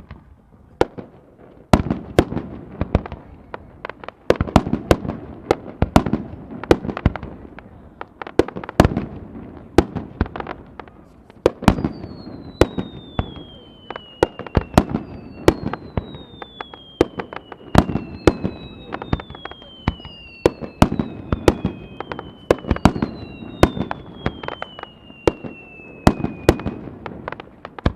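Fireworks going off in a rapid, continuous string of sharp bangs and crackles. From about halfway, five long whistles fall in pitch one after another, each lasting about three seconds.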